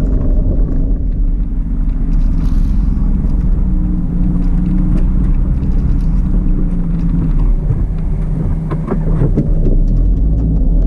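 Daihatsu Hijet Jumbo kei truck driving on a rough forest road: a steady engine drone and road rumble, with scattered rattles and knocks from the bumps that come thickest near the end.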